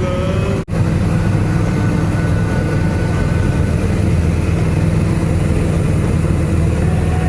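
A light aircraft's engine and propeller droning steadily in cruise flight, heard inside the cockpit. The sound cuts out for an instant about two-thirds of a second in.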